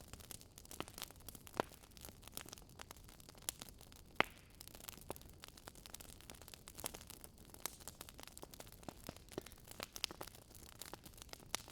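Wood fire crackling: a steady run of irregular small pops and snaps, with one sharper pop about four seconds in.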